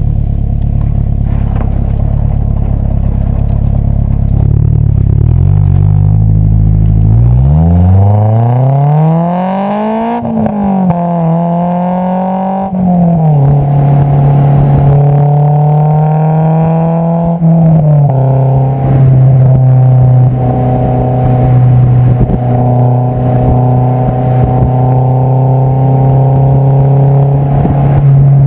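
Honda S2000's 2.2-litre four-cylinder engine through an Invidia Q300 exhaust, heard at the tailpipe: it drones steadily at low revs, then revs up hard about seven seconds in, with sudden pitch drops at upshifts around ten and thirteen seconds, before settling into a steady cruise.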